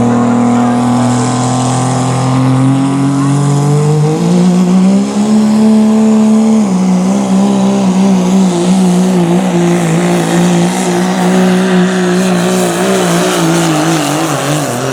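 Turbo-diesel pulling truck's engine at full throttle hauling a pulling sled. The revs climb for the first few seconds, step down slightly about halfway and hold with a wavering note, then drop off near the end as the truck runs out of horsepower.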